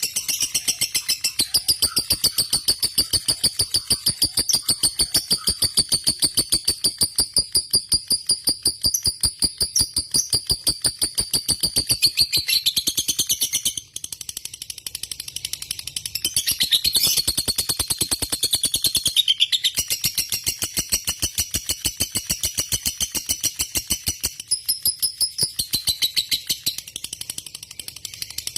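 Lovebird singing a long, unbroken chattering trill: fast, evenly repeated notes over a high, held tone. It pauses briefly about halfway through, then carries on.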